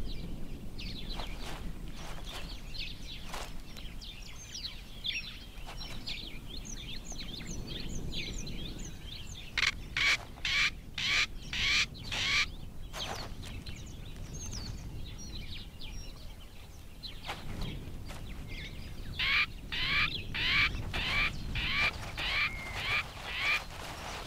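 Birds calling: scattered short high chirps, then two bouts of a loud call repeated about twice a second. The first bout comes about ten seconds in and lasts about three seconds; the second comes near the end and lasts about four seconds.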